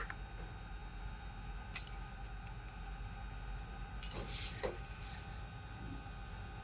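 Small metal parts clinking as they are handled on a workbench: one sharp clink about two seconds in and a short cluster of clinks and scrapes about four seconds in, over a steady low hum.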